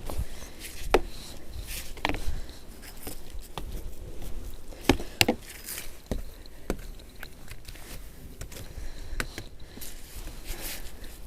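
Snow brush or scraper knocking and brushing against a snow-covered car while it is cleared of snow, with irregular sharp knocks about a second apart.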